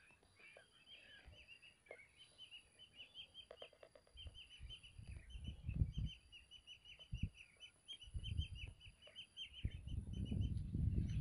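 A flock of lesser whistling ducks calling, many short high whistles overlapping in quick succession. Low rumbling thumps come through underneath and build toward the end.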